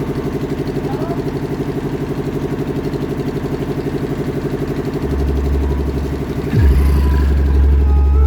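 An engine runs with a fast, even pulse. About five seconds in, a deep bass note from a sound system comes in, and a falling sweep near six and a half seconds drops into louder, heavy bass.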